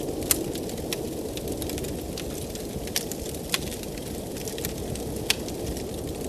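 Wood fire in a fireplace crackling, with sharp pops every second or so, over a steady low rush of blizzard wind.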